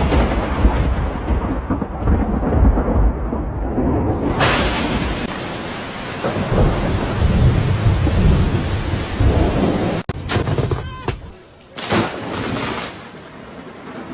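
Thunder rumbling long and loud over steady heavy rain, with abrupt cuts between takes about ten seconds in and a short loud burst of noise near the end.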